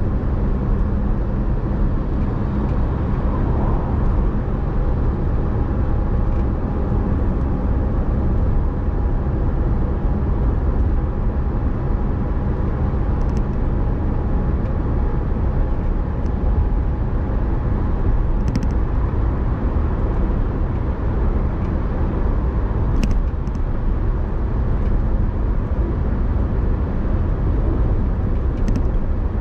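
Car driving at a steady pace: constant engine and road rumble, with a faint steady whine for several seconds near the start and a few light ticks later.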